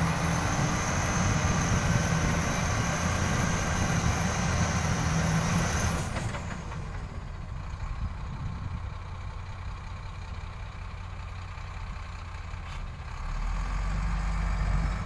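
Heavy mining dump truck's diesel engine running, loud for the first six seconds, then easing off and picking up again near the end.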